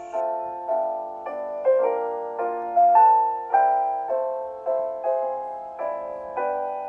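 Background music: a slow, gentle solo piano piece, notes and chords struck about twice a second, each ringing and fading.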